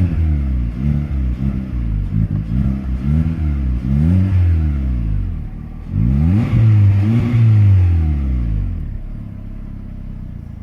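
Peugeot 207 1.6 16v four-cylinder petrol engine breathing through an Ulter aftermarket exhaust, revved in a quick run of throttle blips, then two longer revs, then dropping back to idle near the end.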